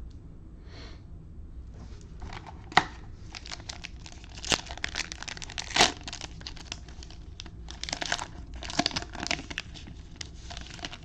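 A foil trading-card pack wrapper being torn open and crinkled: a run of crackling rustles with a couple of sharp clicks.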